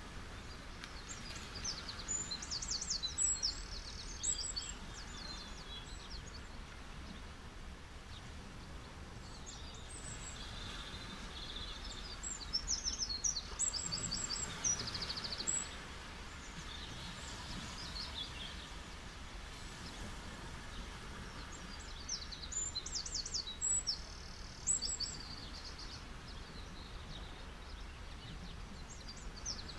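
A songbird singing in bursts of rapid, high, trilled notes, four times about ten seconds apart, over a steady, soft background wash of beach waves.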